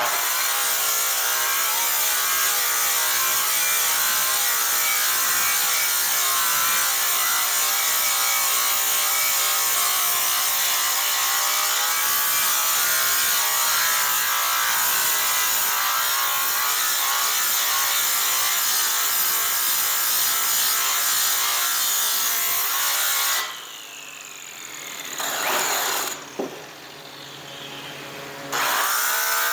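Electric power polisher cutting the metal of an airplane exhaust pipe with compound, running steadily with its pitch wavering under load. About three-quarters through it is switched off and winds down with a falling whine, then starts up again just before the end.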